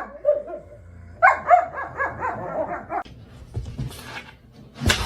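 A dog yipping in quick runs of short, high-pitched barks, with a lower drawn-out call between them, then a second rapid run about a second in.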